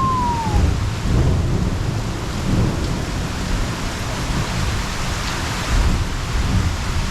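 Heavy rain pouring down, with thunder rumbling underneath that swells and fades in several surges.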